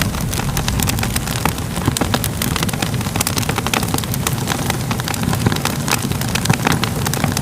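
Crackling fire: a steady low rumble of flames under frequent, irregular sharp pops and crackles.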